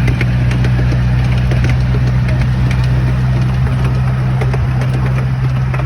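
An engine running steadily with a deep even hum, with light clicks and rattles over it.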